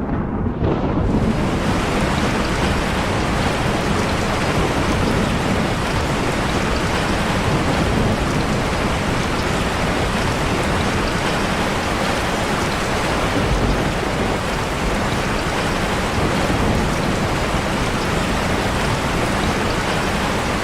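Steady hiss of heavy rain, filling in fully about a second in and holding even throughout.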